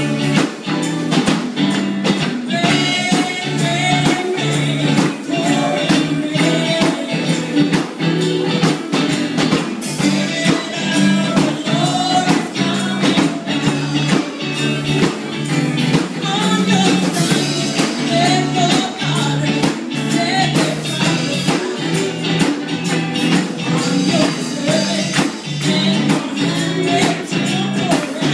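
Gospel song performed live: a singer over instrumental backing, with a tambourine keeping a steady beat.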